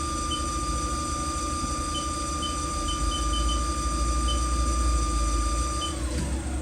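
Haas TL-1 CNC lathe spindle running steadily at 1,000 RPM, a constant motor and drive hum with a high whine; near the end the whine falls away as the spindle slows.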